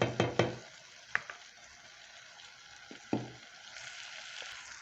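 Chicken, onions and ginger sizzling in a hot pot, a steady hiss. A quick run of sharp taps in the first half second, another about a second in and a duller knock about three seconds in, as utensils strike the pot.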